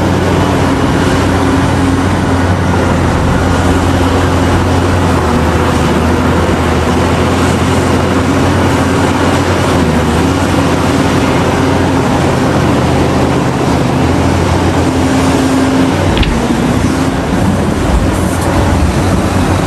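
Heavy diesel engine of mining machinery running under load, a steady low drone whose pitch shifts a little as the load changes.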